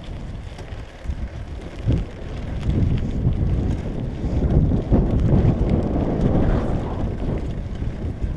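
Wind buffeting the microphone as a low, uneven rumble that swells and fades, with a few light knocks.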